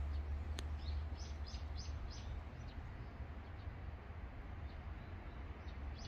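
Small birds chirping outdoors, with a quick run of five or so short high chirps starting about a second in and a few scattered ones after, over a steady low background rumble.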